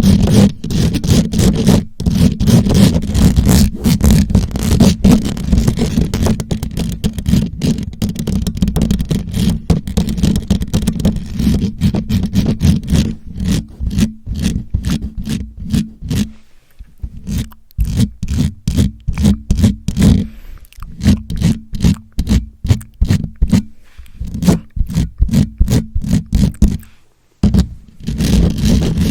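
Scratching and rubbing directly on a microphone, loud and close. Rapid, continuous scratching gives way about halfway through to separate quick strokes, several a second, with a brief pause near the end.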